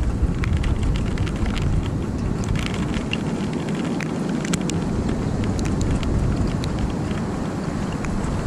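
Thunderstorm rain falling, with many scattered sharp ticks of drops striking nearby surfaces, over a steady low rumble of wind buffeting the microphone that eases briefly about halfway through.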